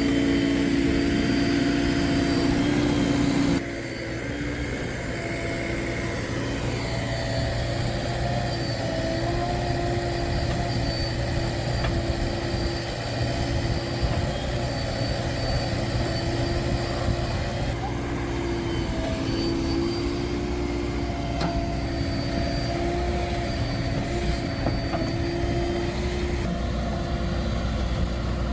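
Heavy-vehicle diesel engine running steadily, with a sudden drop in loudness a few seconds in.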